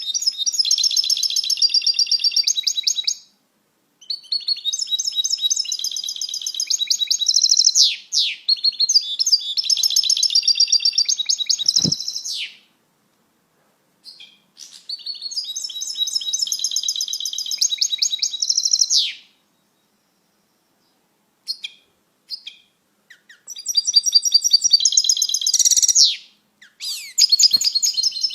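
European goldfinch singing: fast, liquid twittering song in several long bouts, with short pauses between them.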